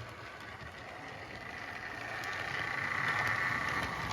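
Model train running on track: a steady electric motor whine with light clicking of wheels over the rails, growing louder as it approaches.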